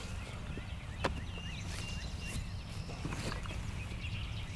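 Outdoor ambience: a steady low rumble of wind on the microphone, with small birds chirping now and then and one sharp tap about a second in.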